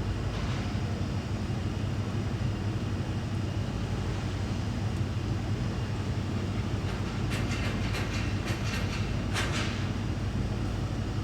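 Steady low drone of a large car ferry's engines, muffled through the terminal window glass, with a few brief crackles about seven to ten seconds in.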